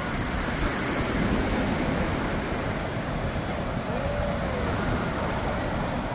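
Sea surf breaking and washing up on a beach, a steady rushing noise with no pause.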